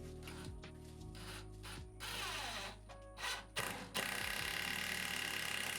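Background music over a power drill driving lag bolts for a wall-mounting bracket: short spurts of the drill about two seconds in, then a steady run of the drill over the last couple of seconds.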